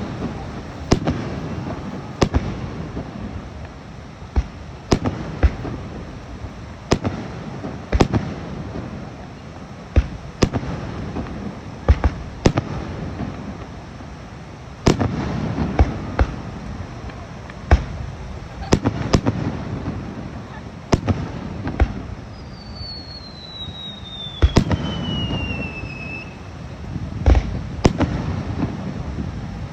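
Fireworks display: aerial shells bursting in sharp bangs every second or so, some in quick clusters, over a steady rumble and crowd noise. A long falling whistle sounds about three-quarters of the way through.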